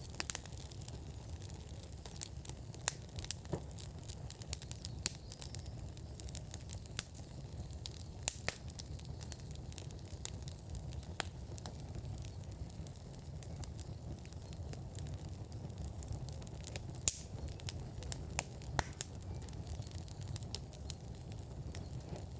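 Wood fire burning in an outdoor fire pit, crackling with irregular sharp pops over a steady low rumble; one of the loudest pops comes about 17 seconds in.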